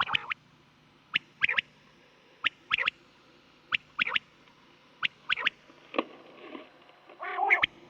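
Recorded quail calls: short, sharp notes in quick groups of two or three, repeating about every second, over a steady low hum. Near the end comes a louder, rougher call.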